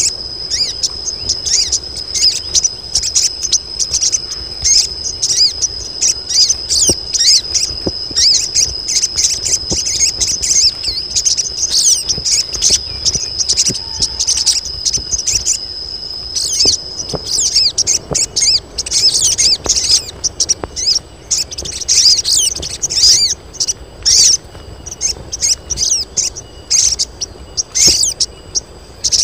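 Several female crimson sunbirds chirping rapidly and without pause in high, thin calls. These are the calls of females in breeding condition, used to lure males. A steady high tone runs beneath them until a little past halfway.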